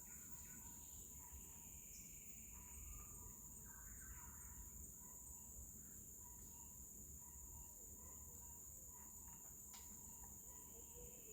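Faint, steady high-pitched drone of crickets, with a few soft, short bird notes about a second in, around four seconds in and near the end.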